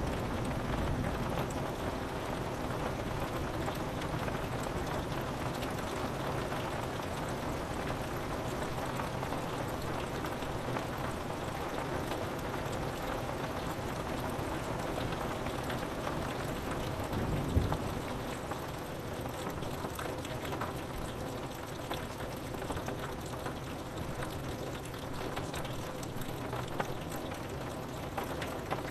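Steady rain falling on a window, with low rolling thunder at the start and a short, sharp thunder burst about two-thirds of the way through.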